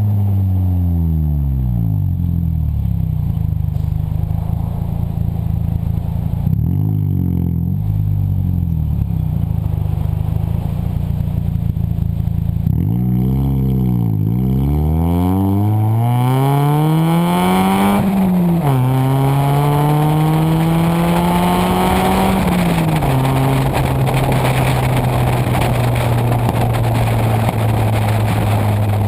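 1998 Toyota Corolla four-cylinder engine through a straight-pipe exhaust, with no muffler, changing revs. The engine dips and rises a few times, climbs steadily for several seconds, drops briefly and climbs again, then settles to a steady drone near the end.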